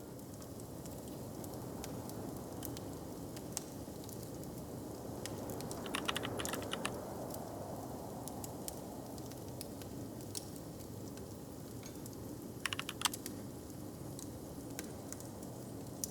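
Wood fire crackling in a hearth: scattered sharp pops and snaps, with quick flurries of crackles about six seconds in and again near thirteen seconds, over a low, steady background rumble.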